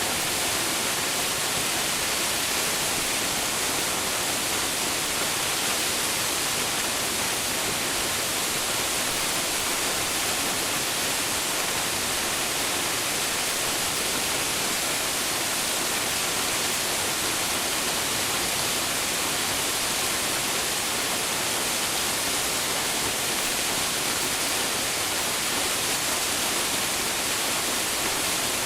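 Waterfall: water falling and splashing into a pool in a steady, unbroken hiss, strongest in the high range.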